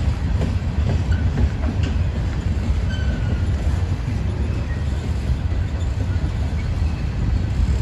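Norfolk Southern freight train rolling past with a steady low rumble of wheels on rail. A few clicks and a faint brief squeal sound over it.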